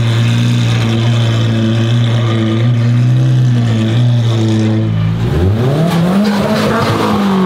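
A high-performance car engine running loud at a steady note, then about five seconds in its pitch dips and climbs quickly to a higher note that it holds.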